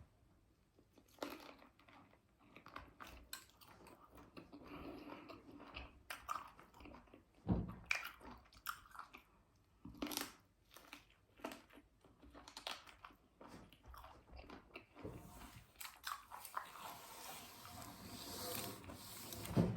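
A person eating roasted chicken close to the microphone: irregular biting and chewing with sharp crunches, growing denser and louder near the end.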